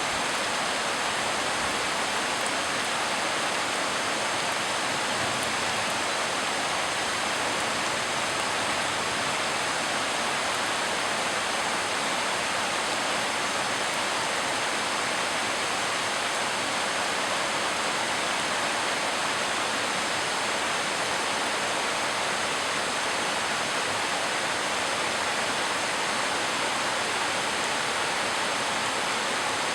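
Heavy tropical rain pouring down as a steady, even hiss.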